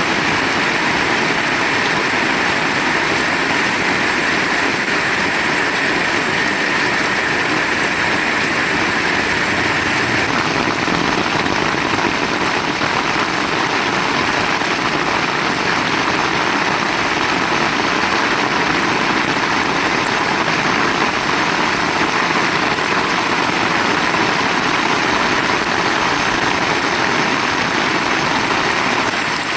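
Heavy rain falling, a dense, steady hiss without a break.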